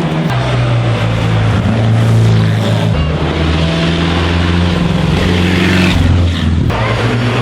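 Loud racing car engines running, each engine note holding steady and then shifting pitch abruptly a few times.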